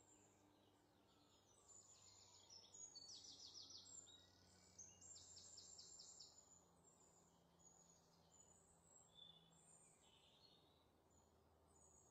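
Near silence, with faint, high-pitched bird chirps and rapid trills, busiest a few seconds in.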